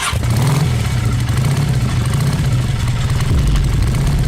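Yamaha Fascino 125 FI scooter's single-cylinder engine idling steadily.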